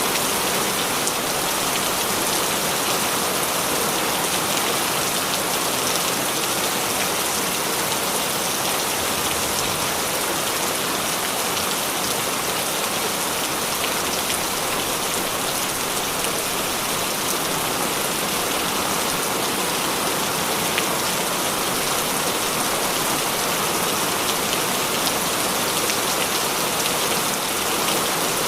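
Heavy rain falling steadily, a dense even hiss of drops striking surfaces, with fine individual drop ticks and no thunder.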